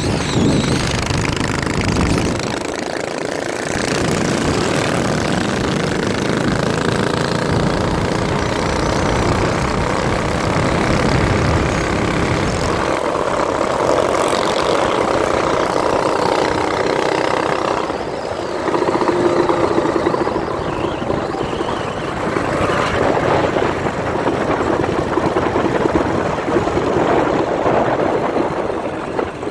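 Minibike's small engine running, its revs rising and falling.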